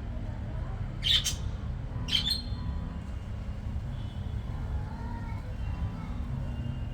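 Budgies giving two short harsh squawks, about a second apart, with faint chirping after them over a steady low hum.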